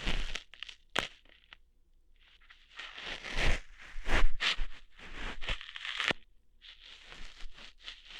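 Close-up ASMR ear-hair plucking: clusters of crackling, tearing rips with sharp snaps, separated by short pauses.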